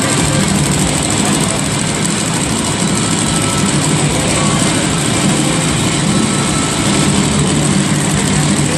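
Monster truck's supercharged V8 running steadily at a low, even speed, with a constant high hiss over it.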